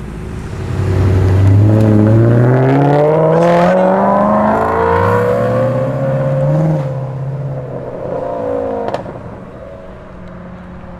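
A car accelerating hard out of the exit, its engine revving up through one gear, a gear change about five seconds in, then pulling up through the next gear before fading away.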